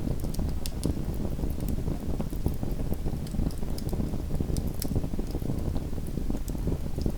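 Small wood fire burning in a fireplace: a steady low rumble of the flames with many small crackles and pops.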